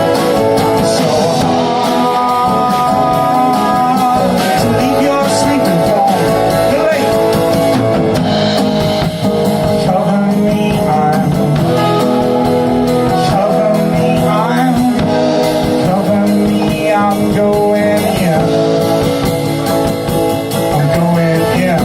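Folk band playing a song live: guitar with a singing voice.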